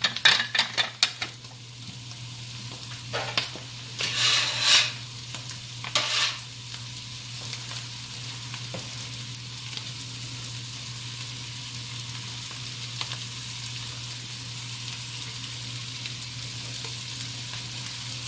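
Halved Brussels sprouts sizzling in butter and bacon drippings in a skillet, with a spatula scraping through them in the first second and a few louder rushes of sizzle around four to six seconds in. After that a steady sizzle goes on over a low hum.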